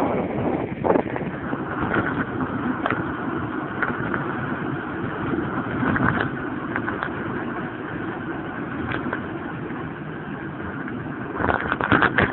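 Steady rushing wind and road noise from riding a bicycle fast downhill, with scattered clicks and a short cluster of rattles near the end.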